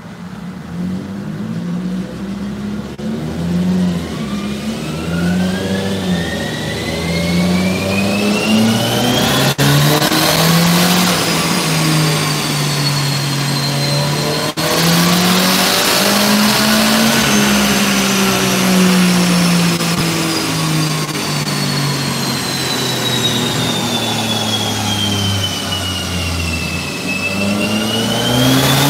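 The bolt-on turbocharged engine of a Perodua Myvi 1.5 runs under load on a chassis dyno. A high whine climbs in pitch for about ten seconds as speed builds, then falls slowly and rises again near the end.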